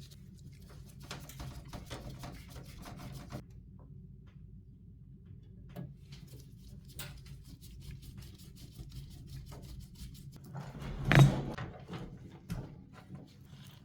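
Hands handling computer parts: scattered small clicks and rustling over a faint steady low hum, with one louder knock about eleven seconds in.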